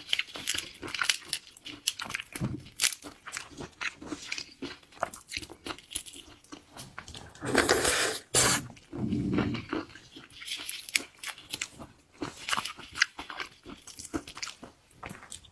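Close-miked eating of shellfish: crisp crunches and clicks of shell and flesh being bitten, with chewing. The loudest crunching comes about halfway through, followed by a softer stretch of chewing.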